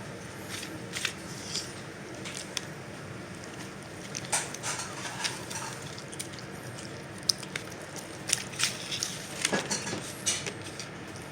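A dog eating scrambled eggs off a plate, chewing and licking, with scattered small clicks and taps.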